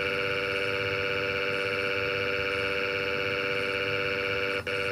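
A long, steady, siren-like tone holding a single pitch with many overtones, broken once by a brief dip near the end.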